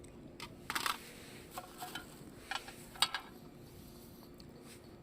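Scattered light clicks and clatters of tableware and utensils being handled, about seven in the first three seconds, the loudest about a second in and again near three seconds.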